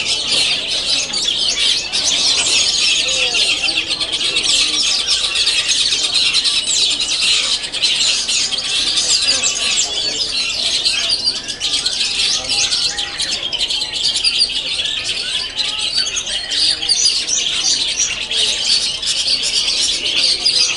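Many caged long-tailed shrikes singing at once: a dense, unbroken chorus of fast chirps, trills and harsh calls.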